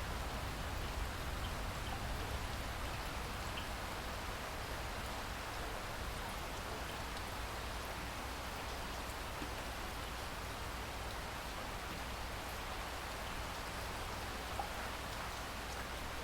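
Steady rainfall: an even hiss of rain with faint scattered drop ticks and a low rumble underneath.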